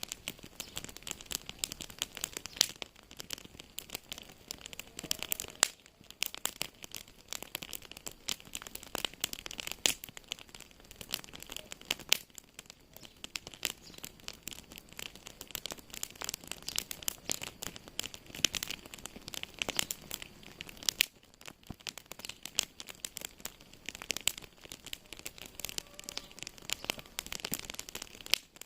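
Wood fire burning in a fireplace, crackling steadily with many small, irregular sharp pops and snaps.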